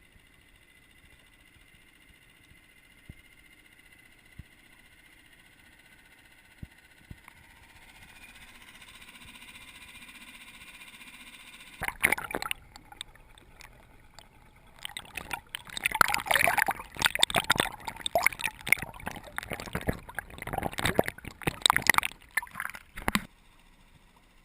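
Water splashing and gurgling in loud, irregular bursts that start about halfway through, grow dense, then stop abruptly near the end. Before that there is only a faint steady hum.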